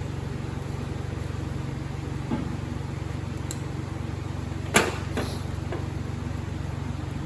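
Steady low machine hum with a few knocks, the loudest a sharp metallic clank a little under five seconds in.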